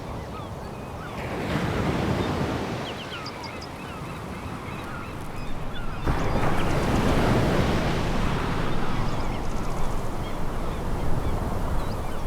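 Sea waves breaking and washing on a pebble beach, with the stones rattling and clicking in the wash. A wave surges in about a second and a half in, and a bigger one about halfway through.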